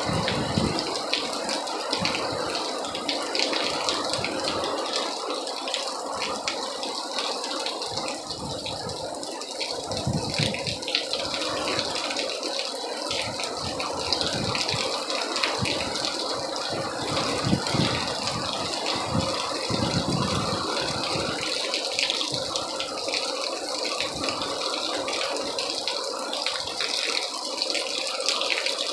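Storm rain and gusting wind: a steady heavy rush with rattling, and irregular low buffeting as the gusts hit the microphone.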